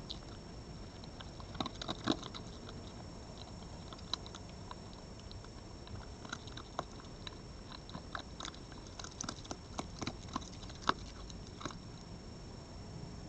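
An animal crunching and chewing food in irregular crisp bites, with clusters about two seconds in and again for a few seconds past the middle, over a steady hiss and a faint high electronic whine.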